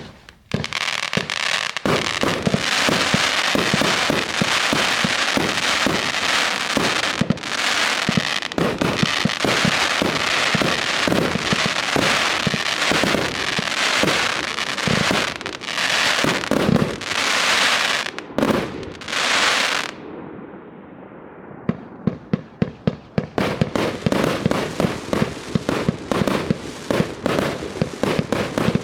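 Yeohwa "Arc de Triomphe" firework going off: about twenty seconds of dense crackling and shots, a short lull, then a quick string of sharp bangs, several a second.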